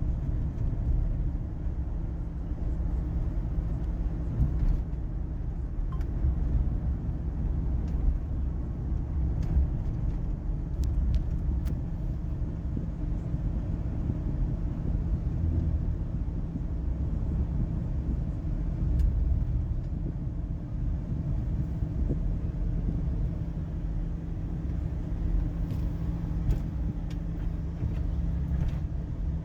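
Steady low rumble of a taxi driving, engine and tyre noise heard from inside the car.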